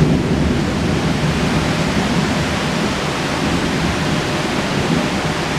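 Heavy tropical rain pouring down in a dense, steady hiss, with the low rumble of thunder dying away in the first second.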